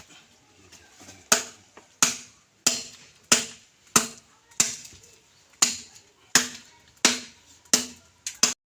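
Hand-tool blows in construction work, about a dozen sharp strikes at a steady pace of roughly one and a half per second, cutting off abruptly near the end.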